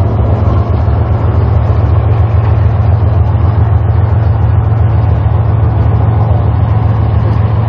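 A vehicle's engine running with a steady low rumble and a constant wash of noise, and no change in pitch.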